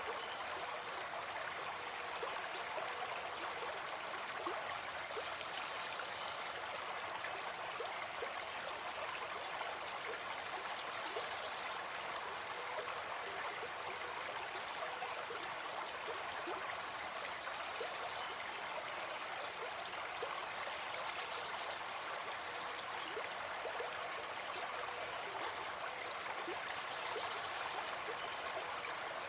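Gentle forest stream flowing steadily, a constant babbling and trickling of water over stones.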